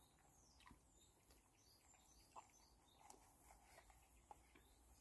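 Near silence: faint birds chirping now and then, with a few soft ticks.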